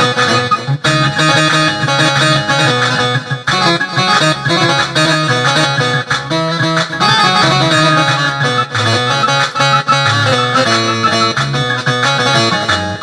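Music played on an Android keyboard app with a Syrian sound set: a busy plucked-string lead over a bass line and rhythm.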